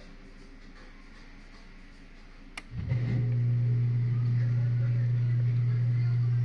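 Whirlpool dishwasher giving a click, then a motor starting up and running with a steady low hum for about four seconds before it stops. It is one of a series of short, repeated motor runs during the cycle.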